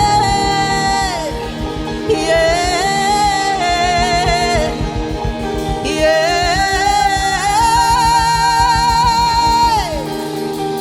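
Gospel worship music: a voice sings three long, drawn-out phrases with held notes over a sustained instrumental backing and a steady low pulse.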